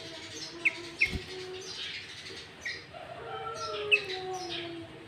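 Sooty-headed bulbul (kutilang) singing, its song laced with greater green leafbird phrases: sharp high chirps, three of them loudest, over lower whistled notes that slide downward near the end. A brief low thump comes about a second in.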